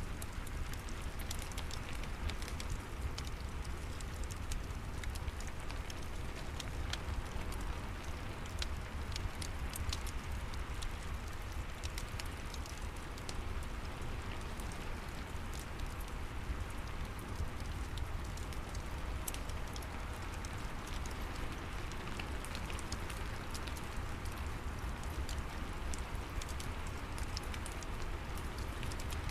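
Steady rain falling, with a fireplace crackling and sharp pops scattered throughout.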